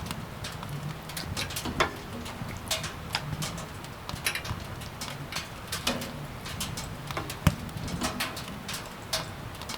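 Firewood crackling in a wood-burning stove: irregular sharp pops and snaps over a low, wavering rumble, with one louder pop about two-thirds of the way through.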